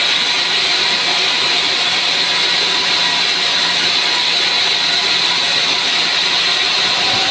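Sawmill saw running through dry wood: a loud, steady cutting noise with a hiss centred high up, without a break.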